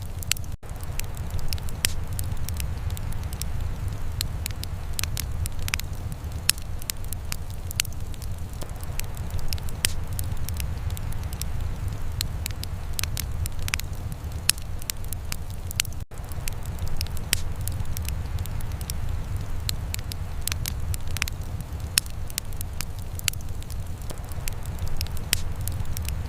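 Wood fire in a fireplace crackling and popping with irregular sharp snaps over a steady low rumble. The sound drops out for an instant twice, about half a second in and again about 16 seconds in.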